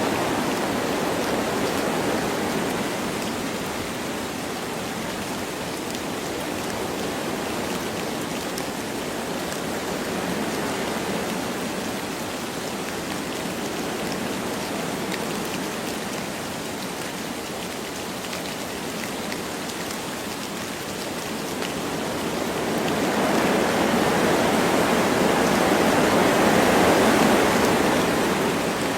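Wind blowing through forest trees with light rain falling, a steady rushing hiss that swells in a gust near the end.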